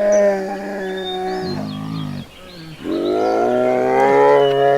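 Two long, drawn-out calls from a large animal. The first lasts about a second and a half, and the second swells up about three seconds in and holds steady.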